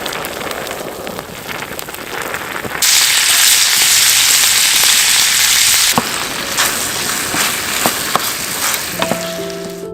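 Food sizzling in a hot pan, with scattered sharp crackles; about three seconds in, the sizzle gets much louder for about three seconds, then settles back. Soft piano music comes in near the end.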